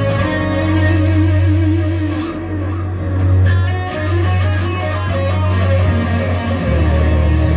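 V-shaped electric guitar with a replacement bolt-on neck being played: held low notes, changing pitch every second or two.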